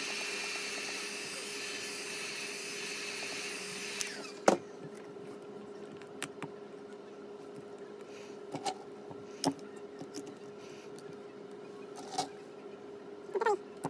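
Hot-air heat gun blowing for about four seconds to soften a phone's back-panel adhesive, then switched off and winding down with a falling whine, followed by a sharp click. Scattered small clicks and taps of tools on the phone follow.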